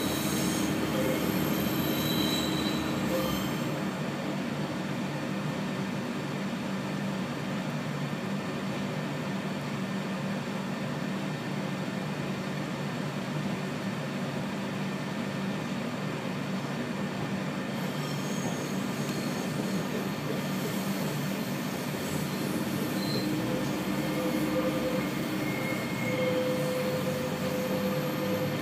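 Passenger train running along the track, heard from inside the carriage: a steady rumble and hiss of wheels on rails, with a few faint, brief wheel squeals, the longest near the end.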